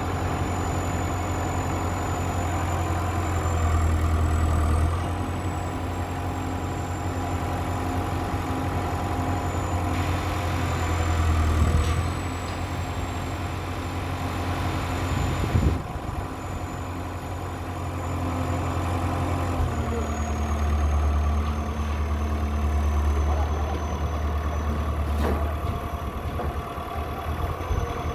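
Diesel engine of a Komatsu D31E-20 crawler bulldozer running steadily as it climbs onto a towing trailer, swelling under load three times. A few sharp metallic knocks come about twelve, sixteen and twenty-five seconds in.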